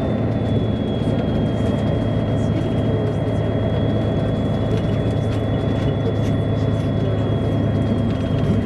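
Steady running hum of a MAN A23 articulated diesel city bus, with a thin high whine running through it.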